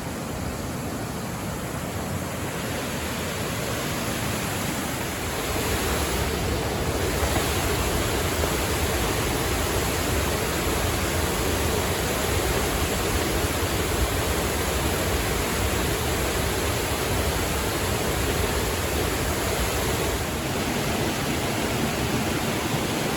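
Waterfall rushing: a steady, loud wash of falling water that grows a little louder over the first few seconds, then holds steady.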